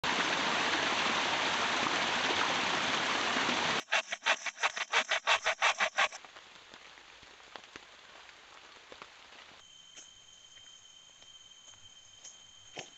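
Heavy rain falling, a steady hiss for about four seconds. It gives way to about two seconds of quick regular pulsing, roughly six a second, then a much quieter stretch in which a thin steady high tone starts near the end.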